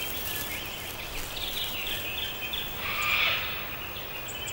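Birds chirping: a run of short, high calls from about a second and a half in, loudest around three seconds, over steady outdoor background noise.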